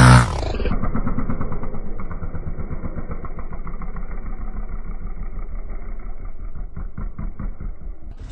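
Motocross bike engine running steadily with an even, rapid pulsing beat, dull-sounding with no treble. Loud electronic music cuts off in the first moment.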